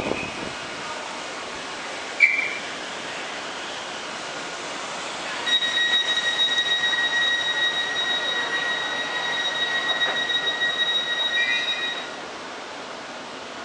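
Train wheels squealing as a train moves through the station: a steady high-pitched squeal that starts about five seconds in and stops about six seconds later, over the rumble of the passing train. A short sharp squeak comes about two seconds in.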